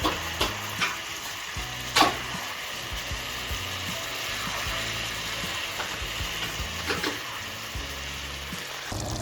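A steady sizzling hiss with a few sharp clicks and crackles, over soft background music.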